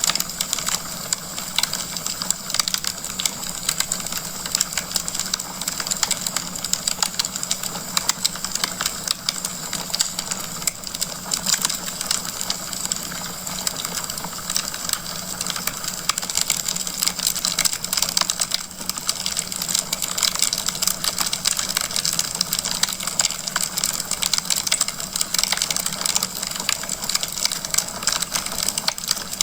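Wood fire crackling in a fireplace: a dense, unbroken run of small pops and snaps over a soft hiss.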